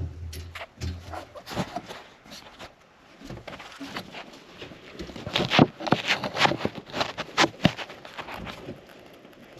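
Rapid, irregular crunching and knocking as snow and ice are broken up and cleared by hand, densest and loudest from about five to eight seconds in.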